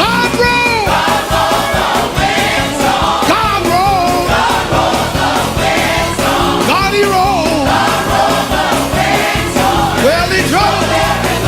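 Up-tempo Pentecostal gospel music with a steady beat, and voices singing over the band without clear words.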